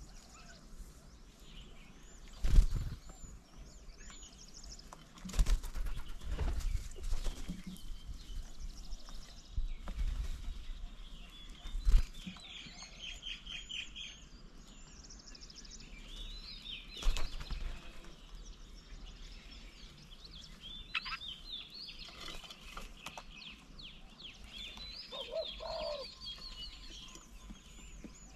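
Several garden birds chirping and trilling at a bird table, with flapping wings and a few sharp thumps. Low cooing notes come in near the end.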